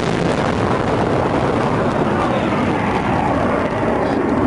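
Loud, steady rushing roar of a low-flying military jet's engines, easing slightly near the end.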